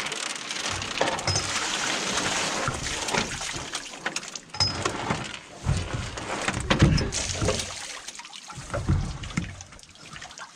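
Water splashing and trickling, with a few knocks.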